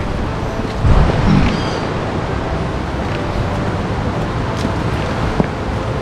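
Steady rush of ocean surf breaking on the beach, with a short low swell about a second in.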